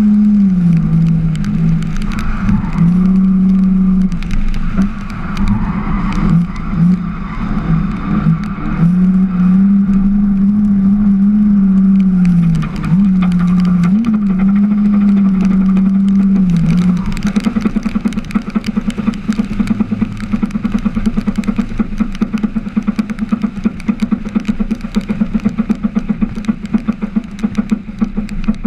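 Drift car engine heard from on board, held at high revs with its pitch swinging up and down and dipping briefly a few times as the throttle is worked. About 17 seconds in it drops to a lower, evenly pulsing run.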